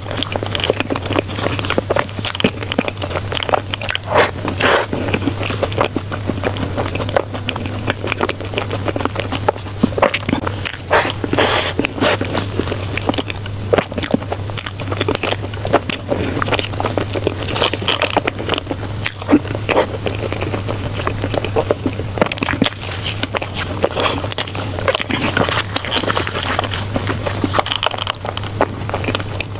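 Eating sounds: biting and chewing food, with many small, irregular crackly clicks of mouth and food noise, over a steady low hum.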